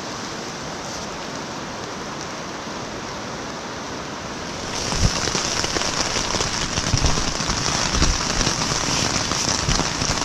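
Steady rain falling. About five seconds in it gets louder and closer, with heavy drops striking a surface nearby.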